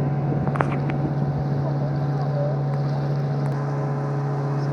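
A boat's engine running at a steady, even drone, with a brief click about half a second in.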